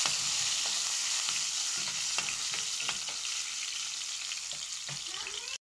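Chopped garlic and onion sizzling in hot oil in a frying pan, with a spoon stirring and scraping against the pan now and then. The sizzle cuts off suddenly near the end.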